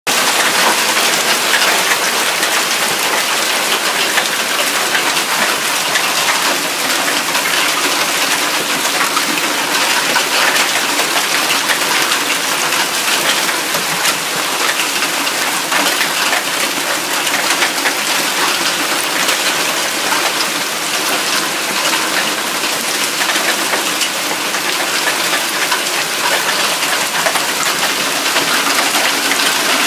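Hail and heavy rain pelting down steadily: a dense, even hiss studded with many sharp clicks of hailstones striking.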